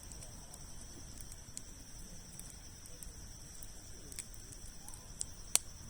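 Campfire of large logs burning, with a few sharp crackling pops, the loudest near the end. A steady high insect trill goes on behind it.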